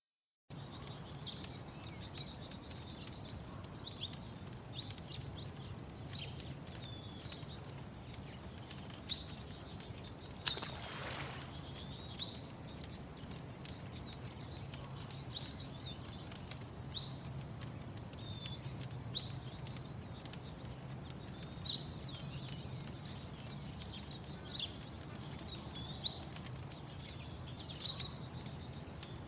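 Lakeside morning ambience: small birds chirping in short, high calls every second or so, over a steady low hum with scattered sharp clicks. A brief rush of noise comes about ten seconds in. The ambience cuts in suddenly about half a second in, after silence.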